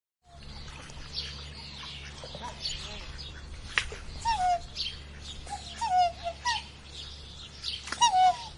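Birds chirping: many short, high chirps mixed with repeated falling calls, over a steady low hum.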